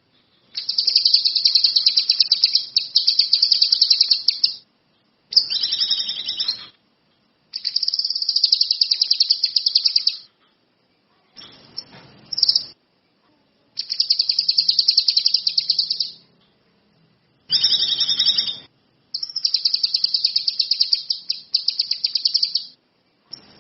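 Kinoi songbird singing in full voice: a run of about seven loud phrases of very fast, high, trilled notes, each phrase lasting one to four seconds, with short pauses between them.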